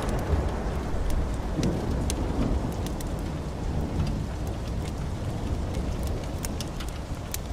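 Low rolling thunder slowly dying away under steady heavy rain, with sharp crackles and pops from a wood fire scattered throughout.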